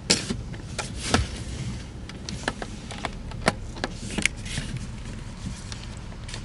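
Low wind rumble on the microphone, with scattered irregular sharp clicks and knocks, about six of them.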